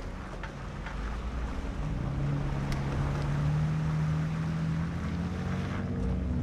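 Off-road 4x4 engine running steadily at low revs in low gear while fording a shallow river, with water sloshing and splashing around the wheels.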